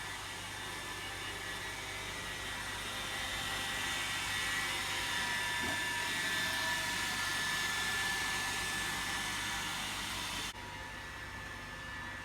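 Roomba robot vacuum running: a steady motor whirr with a high whine and hiss from its suction fan and brushes. About ten and a half seconds in, the higher part of the sound drops off abruptly while a lower hum carries on.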